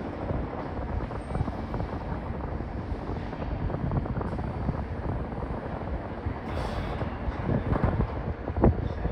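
JR Kyushu 817 series electric train at the station, a steady low rumble with wind buffeting the microphone, and a few short knocks near the end.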